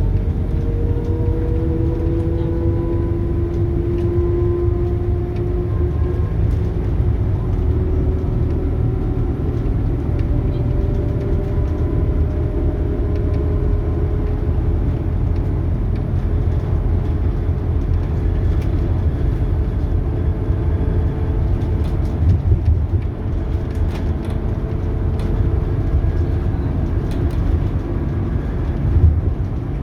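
Scania K280UB bus running under power: the Scania DC9 diesel and ZF Ecomat automatic gearbox give a steady low rumble, with a whine that rises slowly in pitch over several stretches as the bus gathers speed. There are a couple of short thumps later on.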